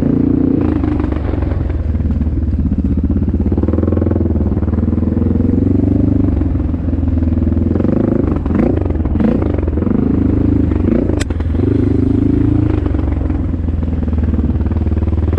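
Honda XR650L's single-cylinder four-stroke engine running under load while riding, its pitch rising and easing off with the throttle. A sharp knock sounds about eleven seconds in.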